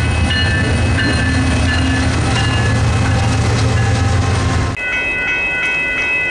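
Diesel locomotives rumbling through a grade crossing while the crossing bell rings over them in a steady repeating pattern. About three-quarters of the way through, the train rumble cuts off abruptly and the crossing bell rings on alone.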